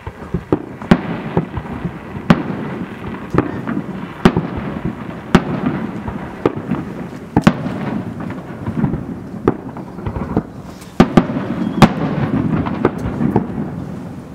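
Aerial firework shells bursting in quick succession, a sharp bang every second or so, with a continuous rolling rumble of echoes between them.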